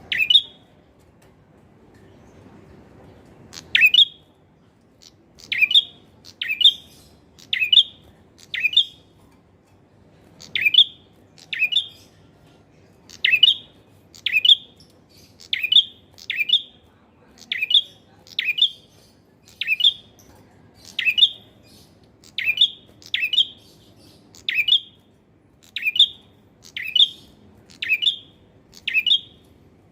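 Male prenjak (prinia) calling, a sharp chirp repeated about once a second. After one chirp at the start there is a pause of about three seconds, then the steady series runs on.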